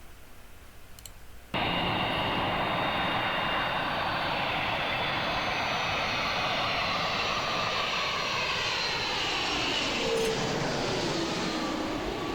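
Jet airliner's engines running as it passes low overhead, cutting in suddenly about a second and a half in; the engine tones fall in pitch as it goes by.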